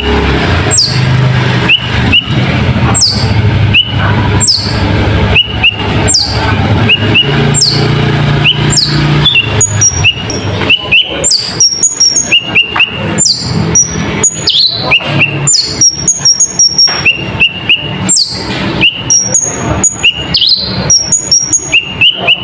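A konin (kolibri ninja) songbird singing a fast, busy song full of learned mimicry. Repeated high falling whistles are mixed with short chirps and sharp clicking notes, and the song grows denser and quicker about halfway through.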